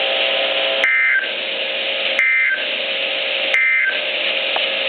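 NOAA Weather Radio end-of-message data tones heard through a weather radio's speaker: three short warbling digital bursts about a second and a half apart, over a steady background hiss and hum. They mark the end of the flash flood warning broadcast.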